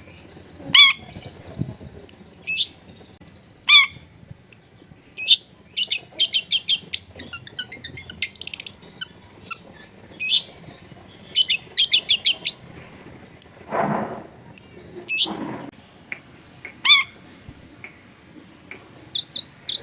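Long-tailed shrike singing vigorously, its song packed with mimicked phrases. Loud separate squawking calls alternate with quick runs of high chips, and two harsher rasping notes come a little past the middle.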